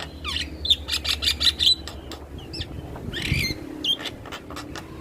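Male Javan myna calling: a quick run of sharp chirps, clicks and short downward whistles, with a louder, harsher call a little past the middle.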